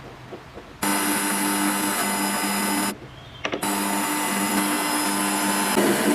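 A small electric power tool's motor switched on about a second in, running with a steady hum and whine, stopped briefly near the middle, then run again; its sound turns rougher near the end.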